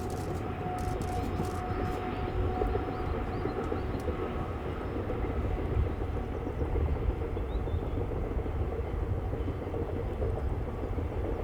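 Train hauled by a KORAIL 7600-series diesel-electric locomotive running along the line: a steady rumble of engine and wheels on rail, with a faint steady tone in the first few seconds.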